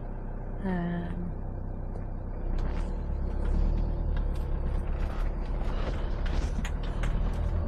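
Motorhome driving along a narrow lane, heard from inside the cab: a low engine and road rumble that grows louder about two and a half seconds in, with scattered creaks and rattles from the cab.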